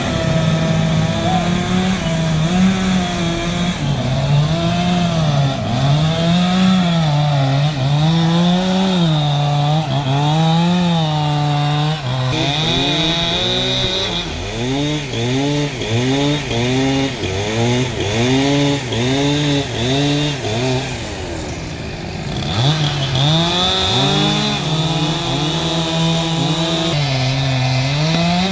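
Two-stroke chainsaw running hard and cutting wood, its engine pitch rising and falling again and again as the revs swing under load.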